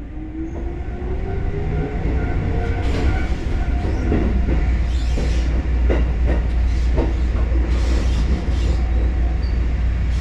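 Kotoden electric train running with a steady low rumble, its motor whine rising in pitch over the first couple of seconds as it gathers speed, then several sharp clicks and knocks from the wheels and track.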